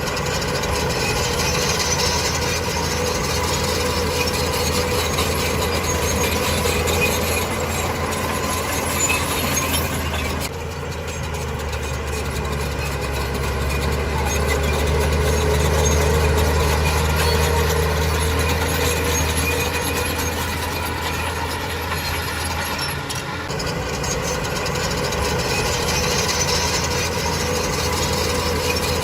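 Heavy earthmoving machinery's diesel engine running steadily with a low drone and a mechanical clatter above it. The sound changes abruptly about ten seconds in and again near twenty-three seconds.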